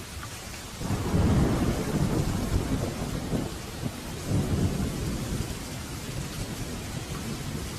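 Steady rain falling, with a roll of thunder that breaks in about a second in, rumbles low with a second swell near the middle, and dies away under the rain.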